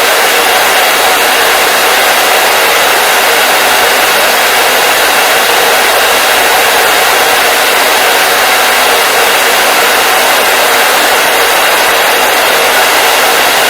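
Hair dryer running steadily, a loud, even rushing blow of air and motor hum that doesn't change.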